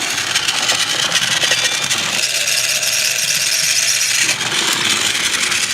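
Battery-powered TrackMaster Snow Clearing HIRO toy engine running along plastic track, its small motor whirring with a fast rattle of wheels on the rails. The sound thins for about two seconds midway, then returns.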